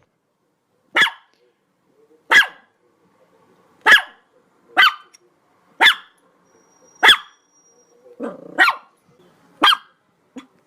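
A dog barking: single sharp barks about once a second, eight in all.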